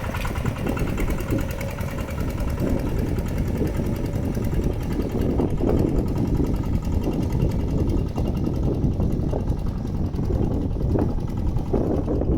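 Mini tractor engine running steadily with a fast, even beat while it plows through waterlogged mud.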